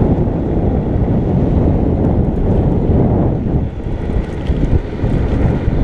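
Wind buffeting the microphone of a moving electric motorbike: a loud, steady low rumble, easing briefly about three and a half seconds in.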